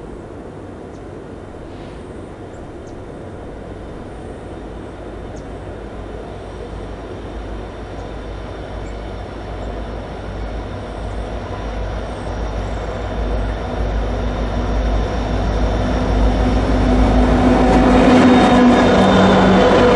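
A diesel freight train approaching, growing steadily louder, with the locomotive's engine drone coming up strongly in the last two seconds.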